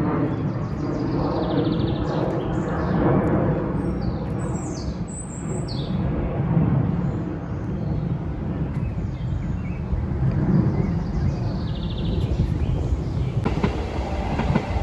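Steady low rumble of a passing WKD electric commuter train, with small birds chirping over it in a few short, falling calls in the first half.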